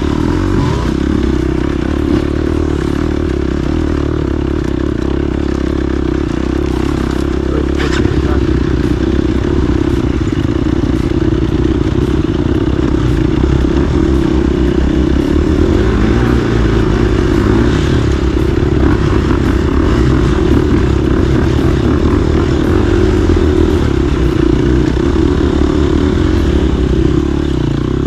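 Motorcycle engine running at fairly steady revs.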